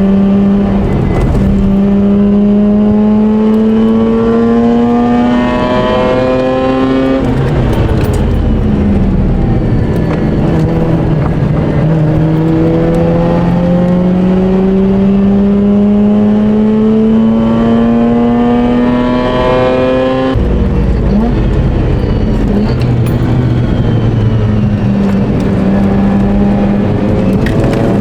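Mazda RX8's twin-rotor rotary engine under hard acceleration, its pitch climbing steadily in long pulls. The revs drop suddenly about seven seconds in and again about twenty seconds in, then climb once more near the end.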